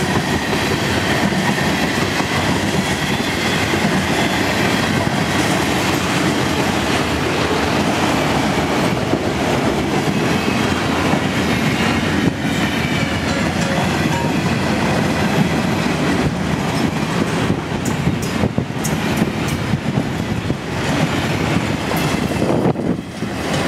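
Freight cars of a mixed freight train rolling past close by: a steady loud rumble of steel wheels on rail with clickety-clack over the rail joints. A thin high wheel squeal sounds in the first several seconds, and sharp clicks and a brief dip in loudness come near the end as the last cars go by.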